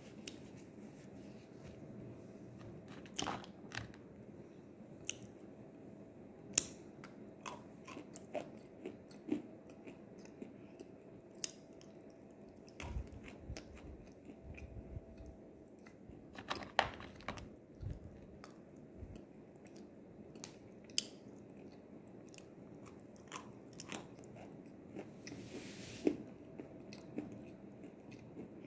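Close-up chewing of crunchy edible clay (nzu, calabash chalk). Irregular crunches and bites, with a few sharper cracks standing out among softer mouth sounds.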